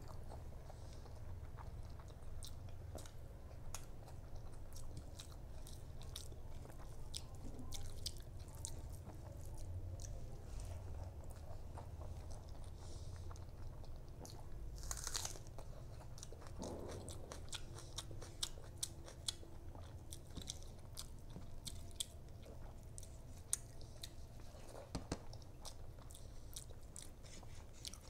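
Close-miked chewing and eating with the mouth, many small wet clicks, as rice and spicy fish curry are eaten by hand. About halfway through comes one loud crunchy bite into a whole raw small onion.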